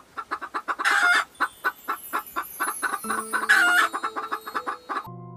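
Hen clucking rapidly, about five or six short clucks a second, with two louder, longer calls about a second in and again past the middle. Faint music comes in during the second half.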